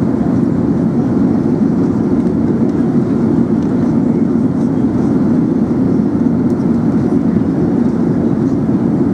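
Steady cabin noise inside an Emirates Airbus A380: an even rumble of engines and airflow, with no change.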